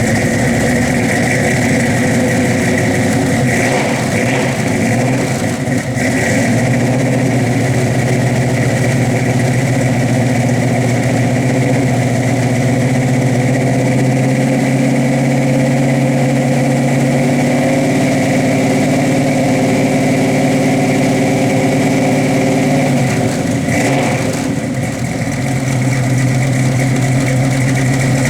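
1970 Plymouth Barracuda's engine running through its exhaust at a steady idle, with a brief dip and wobble in pitch near the end before it settles back.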